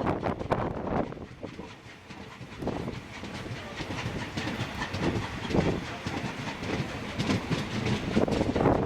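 A steam-hauled freight train, a South African Railways Class 24 locomotive with its goods wagons, moving along the track: a dense rolling rail noise with many short knocks. It is loud at first, drops about two seconds in, then builds again toward the end.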